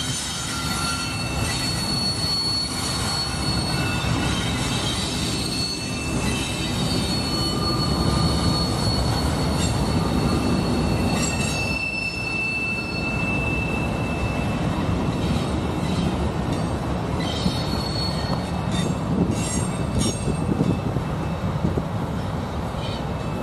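Freight train cars rolling past: a steady low rumble of wheels on rail, with high wheel squeals that come and go as several held tones. A run of wheel clacks over rail joints comes in the last few seconds.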